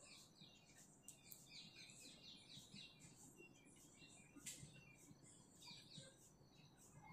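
Faint chirping of small birds: runs of quick high calls, each dropping in pitch, repeated throughout, with one sharp click about halfway.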